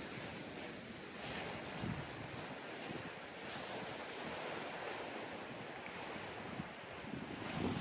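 Sea surf washing onto a beach: a steady hiss of breaking waves that swells softly about a second in and again near the end, with some wind rumbling on the microphone.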